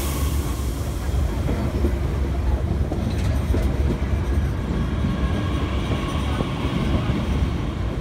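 Bombardier Talent 2 electric train passing close by: a steady low rumble of wheels on rails with a faint whine, and a few clicks about three seconds in.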